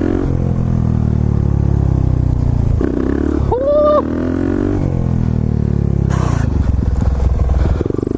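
Motorcycle engine running under way, its pitch shifting up and down with throttle and gear changes. About three and a half seconds in, a short high tone rises and then holds for about half a second.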